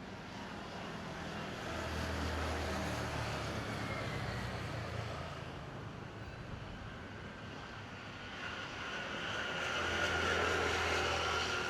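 Motor vehicle engines passing by, swelling twice over a steady background hum: once about two seconds in, fading by the middle, and again near the end.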